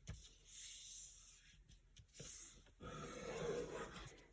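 Faint rustling of a square sheet of paper being handled and creased, loudest near the end.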